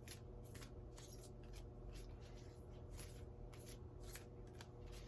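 A deck of oracle cards being shuffled by hand: faint, quick, irregular scratchy strokes of card on card, over a low steady hum.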